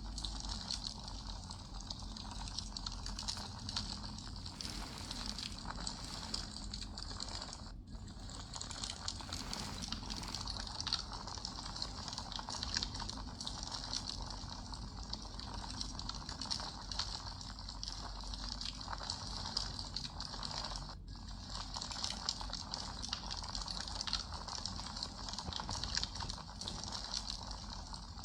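Campfire burning, wood crackling and popping continually over a low rush of the flames. The sound dips out for an instant twice.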